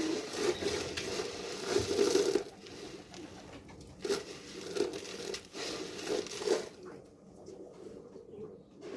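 Pigeons cooing in repeated low pulses, over a rough rustling, crinkling noise that comes and goes.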